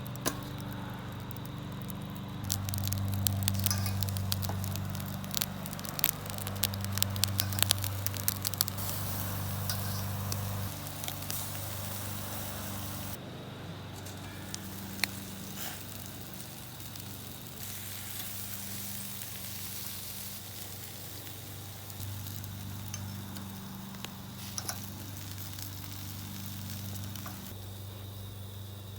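Chicken thighs and vegetables sizzling on a charcoal grill, with a steady hiss and frequent sharp crackles and pops of fat, thickest in the first third. A low steady hum that shifts in pitch every few seconds runs underneath.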